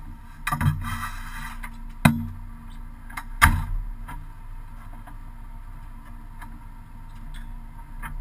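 Rallycross car's engine idling steadily, heard inside the stripped, caged cabin, with a few sharp knocks and clunks in the cabin about half a second, two and three and a half seconds in.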